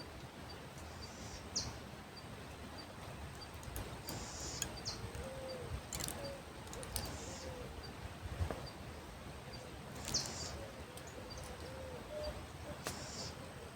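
Birds calling over a low steady outdoor rumble. A short high chirp repeats about every second, with a few brief, louder higher-pitched calls among them. A faint wavering lower call comes through in the middle, along with a few sharp clicks.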